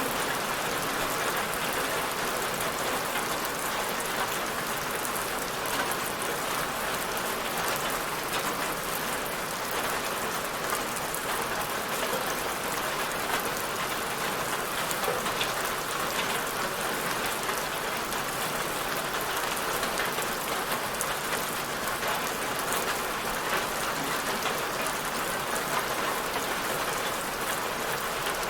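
Steady, even rainfall with dense pattering of drops on a surface.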